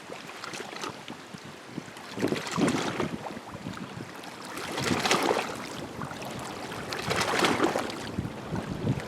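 Small waves of Green Bay lapping and splashing at the shore, in three slow surges about two and a half seconds apart.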